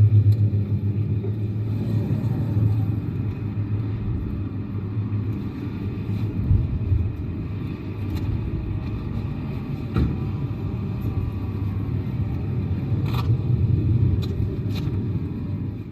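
Yamaha Tracer 9 GT's three-cylinder engine running at a steady, even pitch, with a few light clicks in the second half.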